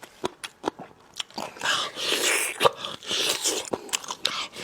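Close-miked eating sounds of biting into and chewing a big piece of braised spicy meat with crunchy cartilage. There are a few sharp crunches and clicks in the first second or so, then wet, crunchy chewing from about a second and a half in.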